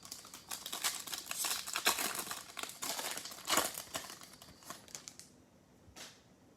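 Crinkling and rustling of a foil trading-card pack wrapper being handled, with many small crackles and a louder rustle about three and a half seconds in. It stops after about five seconds.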